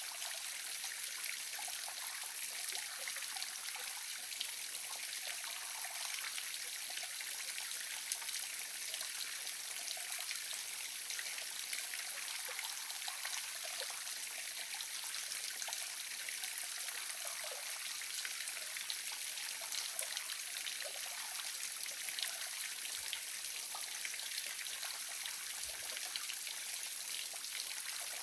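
Waterfall splashing steadily, a constant hiss of falling and trickling water with small splashes through it.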